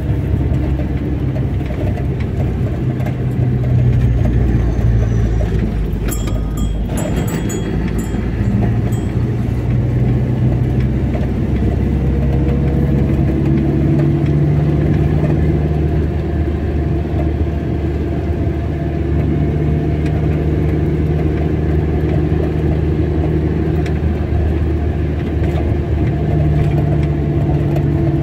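A car being driven at a steady pace: engine hum and road noise, the engine note rising and falling gently, with a short burst of noise about six seconds in.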